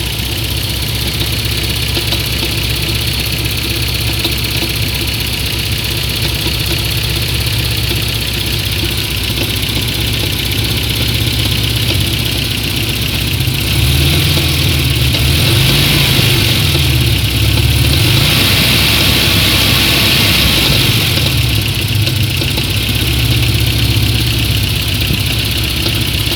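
Car engine idling with a knocking noise, which the owner treats as an engine fault. It is revved up and back down a few times around the middle.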